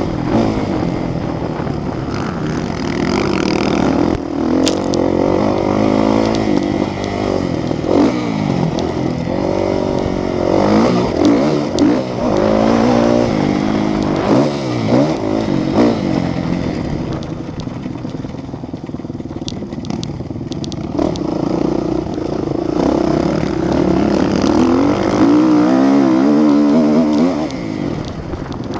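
Motocross motorcycle engines revving, their pitch repeatedly rising and falling as the bikes accelerate and shift, with several engines overlapping in the middle.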